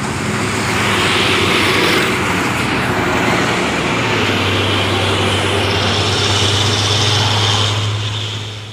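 Diesel truck engine running hard at high revs, a loud steady drone with a heavy hiss. The sound drops away sharply near the end.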